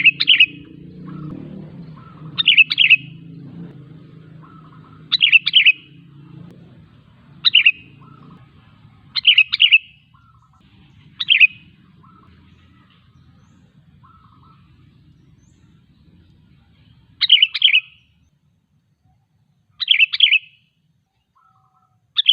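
Sooty-headed bulbul (kutilang) calling: short, loud chirping phrases about every two seconds, with a pause of about five seconds in the middle.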